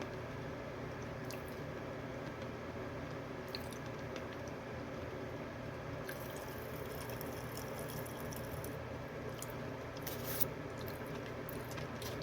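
Popping candy crackling faintly in the mouth, with scattered small pops and wet chewing sounds that come thickest in the second half, over a steady background hum.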